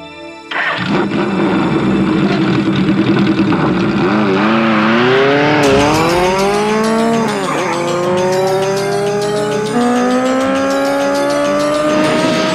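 Movie sound effect of a speeding vehicle's engine, coming in loud about half a second in and revving hard, its pitch climbing and then dropping back at gear changes.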